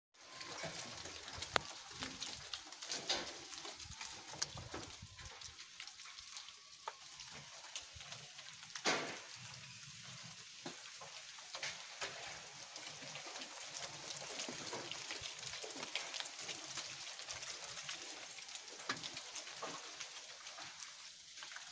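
Rain falling in a storm: an even hiss with scattered taps and clicks, and a sharper knock about nine seconds in.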